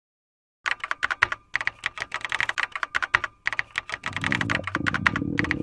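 Rapid clicking like typing on a computer keyboard, in three quick runs with short pauses between them. A low steady hum comes in under the clicks about four seconds in.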